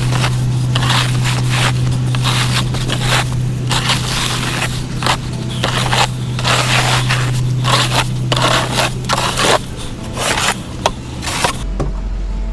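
Snow being scraped off pavement: repeated scraping and crunching over a steady engine hum, all cutting off suddenly near the end.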